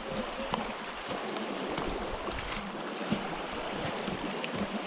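Glacial meltwater running steadily, an even rushing with a few faint ticks over it.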